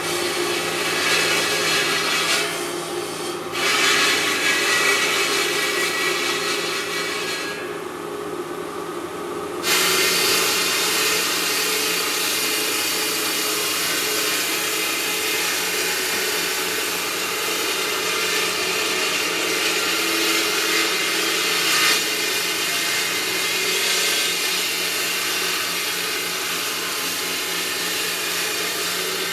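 Marble-working machinery cutting or grinding stone: a steady, noisy running sound whose high part cuts out briefly about three seconds in and again for about two seconds around the eight-second mark.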